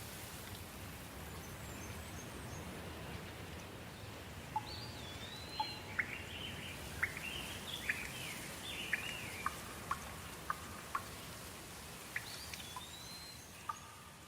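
Soft rain falling steadily, with a bird calling in a run of quick chirps and whistled glides through the middle, ending in a few short sharp notes.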